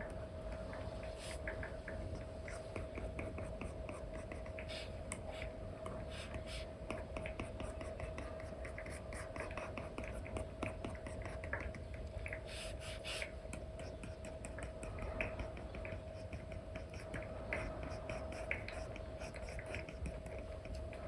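Apple Pencil 2 with an Elecom nib scratching and tapping across a paper-like screen film on an iPad, in many short, irregular strokes and taps, over a steady faint hum.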